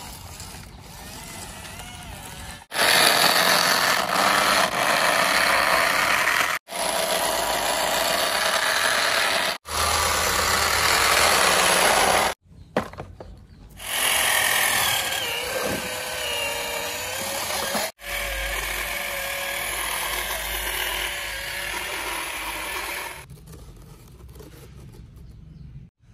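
Small electric motors and gearboxes whirring, in several stretches that stop abruptly and start again; the whine wavers up and down in pitch in the middle stretch.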